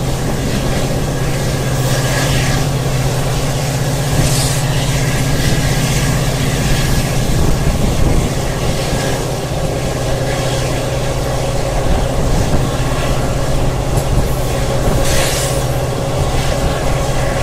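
Passenger train running on the rails, heard from on board: a steady, loud rumble and hum of the coach and wheels, with brief hissy rushes a few times.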